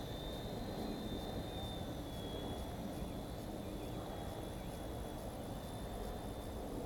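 WLtoys V911-pro RC helicopter in flight: a faint, thin high whine from its small electric motor and rotor, holding nearly steady with slight wavers, over a low even outdoor hiss.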